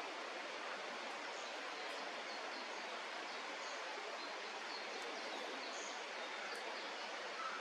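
Steady outdoor rushing noise with faint, short, high bird chirps scattered over it.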